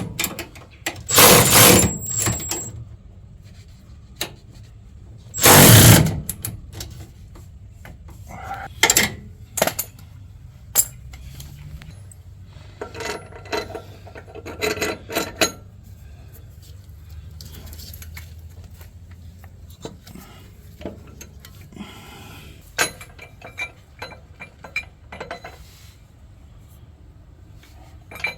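Impact wrench running down the air bag bracket bolts in two bursts of about a second each, one near the start and one about six seconds in, followed by scattered clicks and knocks of hand tools.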